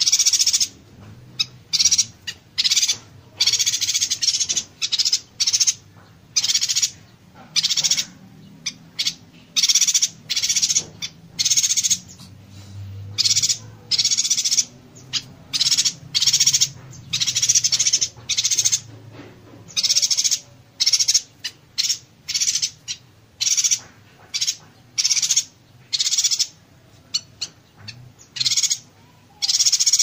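Yuhina singing its buzzy, crackling 'konslet' song in close-set bursts, high-pitched phrases of under a second repeated with short gaps.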